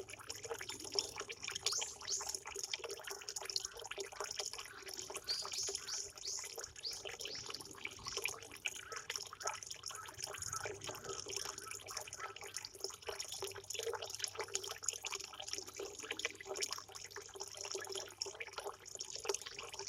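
Water trickling and splashing in a quick, irregular patter of drips, with small birds chirping now and then.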